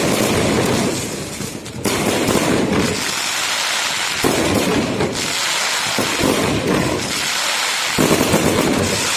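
Fireworks display going off in a dense, continuous barrage of bangs and crackling, with fresh volleys breaking in several times, about two, four, six and eight seconds in.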